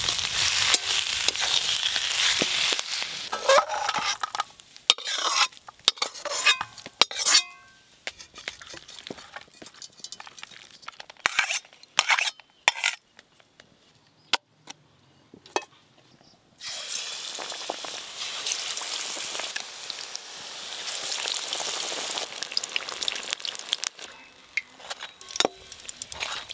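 Banana-flower curry sizzling in a metal wok while a spatula stirs and scrapes it. Then, for about twelve seconds, the sizzle stops and only scattered sharp clicks and knocks remain. About sixteen and a half seconds in, a steady loud sizzle of battered ash gourd slices deep-frying in hot oil starts suddenly.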